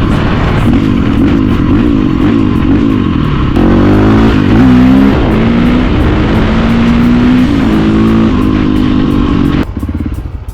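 450 cc single-cylinder dirt bike engine being revved and ridden, its pitch rising and falling over and over as the throttle is worked. It gets louder about midway, with longer held revs and slides in pitch, then cuts off abruptly near the end.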